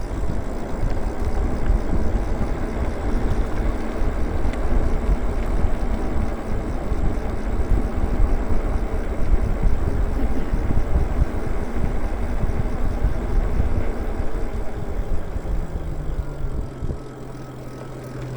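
Riding an electric bike on the road: wind buffeting the microphone over the hum of tyres and electric motors. A faint whine falls in pitch near the end as the overall noise eases.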